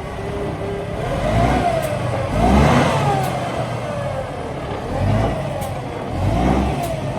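Kenworth T800 truck's diesel engine revving up and down several times, the pitch rising and falling in repeated swells.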